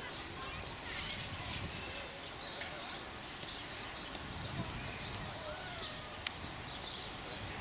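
Small birds chirping, with many short high chirps repeating every fraction of a second over a faint background murmur.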